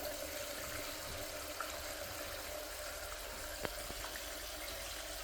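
Tap water running steadily into a plastic mop bucket, filling it up around the parts of a washing machine detergent drawer.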